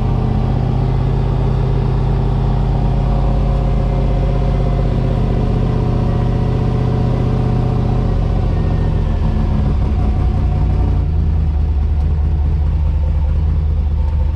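Drift truck's engine running steadily under light throttle, its pitch dropping as it eases off about ten seconds in.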